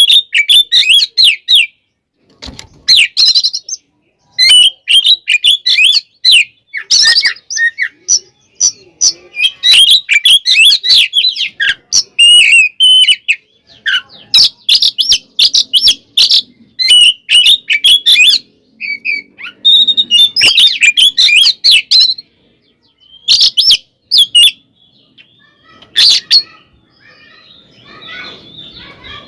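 Oriental magpie-robin (kacer) singing loud, rapid bursts of varied chirps and whistles, broken by short pauses. Near the end it drops to fainter twittering with only a few loud phrases.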